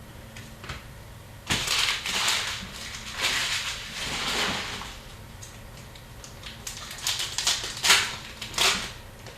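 Foil wrappers of Upper Deck hockey card packs crinkling and tearing, in two spells, then the cards being handled and flicked through in a run of sharp clicks and snaps.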